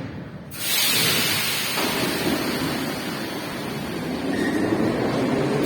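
Metro train running, a loud steady rushing noise of wheels and air that starts suddenly about half a second in and grows heavier toward the end.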